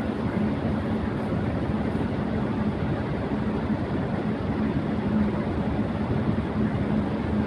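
Electric fan running at high speed: a steady rush of air with a faint, constant low hum underneath.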